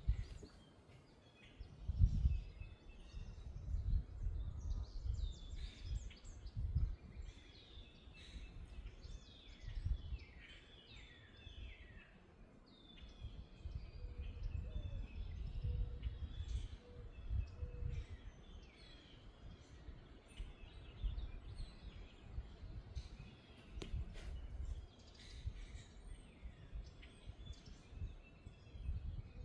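Many songbirds chirping and singing in quick, overlapping calls, over irregular low rumbling gusts of wind.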